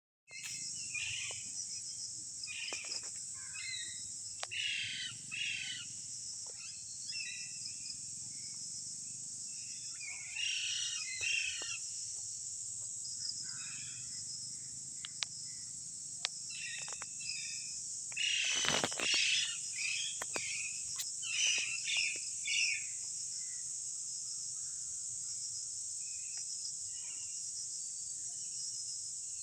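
Wild parrots calling in short, harsh notes that come in scattered clusters, loudest about two-thirds of the way through, over a steady high-pitched insect drone.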